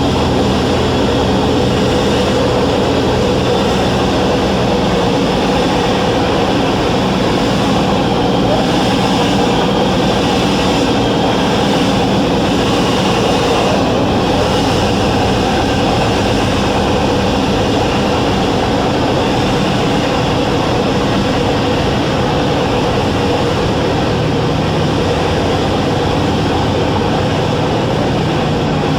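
1993 Velocity S-FG's 180 hp pusher engine and propeller running steadily in flight, a constant loud drone heard inside the cabin.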